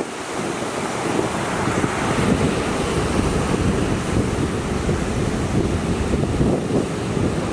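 Storm surf from a typhoon-driven sea crashing on the shore under a strong gusty wind, with wind buffeting the microphone throughout.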